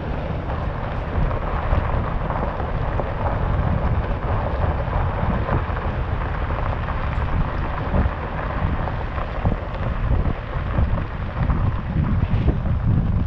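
Wind buffeting the microphone outdoors: a steady rushing noise over an uneven, gusting low rumble.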